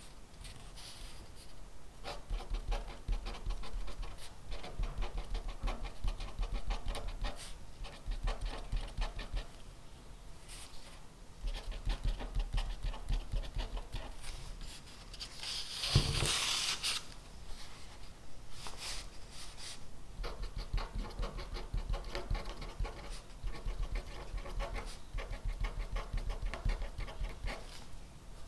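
Pen scratching on paper in bursts of quick strokes, writing by hand. About sixteen seconds in there is a single louder tap and a brief rustle.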